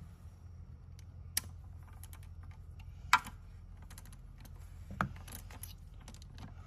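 Irregular light metallic clicks and clinks of a socket wrench being handled and fitted onto the oil filter housing cap, with three sharper clacks about one and a half, three and five seconds in.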